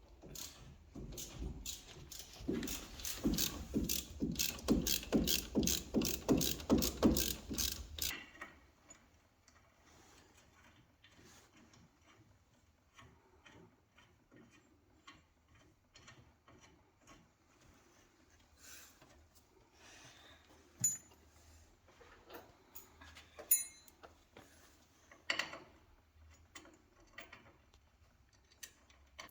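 Ratchet socket wrench being worked to undo a bolt, a fast run of even clicks for about eight seconds that then stops. A few scattered light metallic clinks follow later on.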